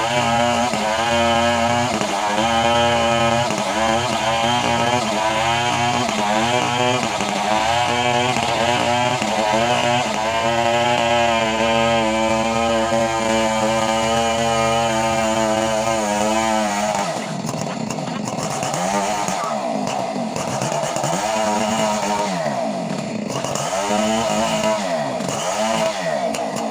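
Chainsaw engine running near full throttle, its pitch wavering steadily. About two-thirds of the way through it is revved up and down several times in a row.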